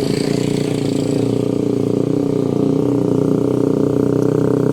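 A close engine running steadily with a fast, even pulse.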